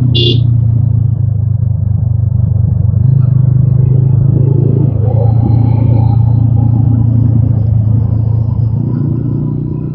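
TVS Apache RTR 200 4V's single-cylinder engine running steadily as the motorcycle rides along, with a short high beep just at the start.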